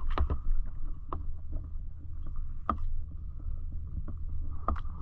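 Kayak out on the open sea: a steady low rumble of water and wind, with a few scattered sharp knocks against the boat.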